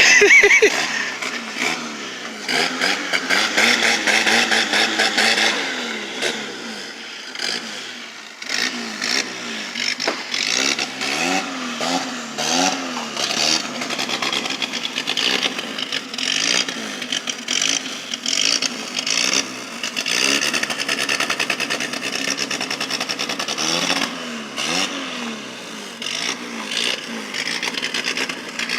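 Vehicle engine revving up and falling back again and again, its pitch rising and dropping every second or two.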